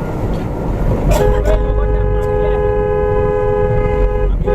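A vehicle horn blares a long, steady two-note blast starting about a second in, with a short break near the end, over a low engine and road rumble.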